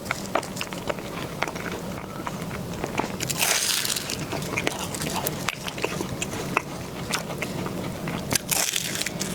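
Close-miked eating: bites and chewing of cake with many small crunchy clicks, and two brief louder hissing swells about three and a half seconds in and near the end.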